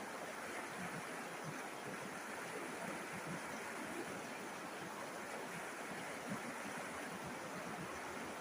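River water flowing over stones, a steady babbling rush with fine splashing texture.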